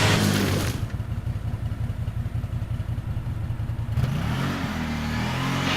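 A UTV's 800 cc gas engine running at low revs with a rapid low pulse, then revving up about four seconds in, its pitch rising.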